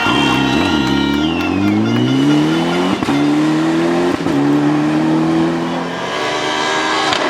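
Rally car engine accelerating hard, its note climbing through the gears with quick upshifts about three and four seconds in. It then fades as the car pulls away.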